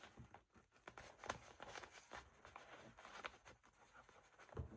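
Faint rustling and light taps of paper being handled on a table, with a soft knock near the end.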